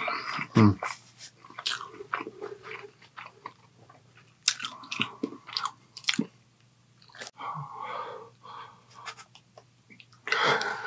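Close-miked wet chewing and mouth smacking on a soft-roll dip sandwich, with many short clicks of the lips and tongue between bites.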